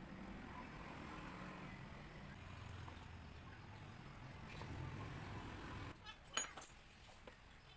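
Faint, indistinct voices over low background noise, then a single sharp click about six seconds in.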